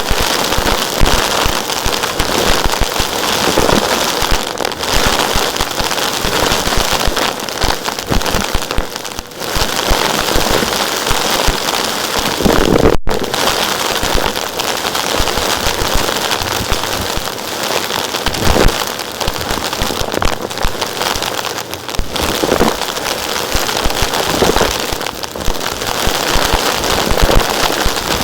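Vacuum cleaner running steadily while sucking up small rocks, which rattle and crackle densely as they are pulled through the nozzle and hose.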